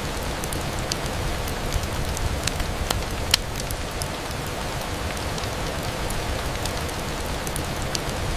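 Steady rain on a window, an even hiss with scattered sharp ticks; the loudest tick comes about three seconds in.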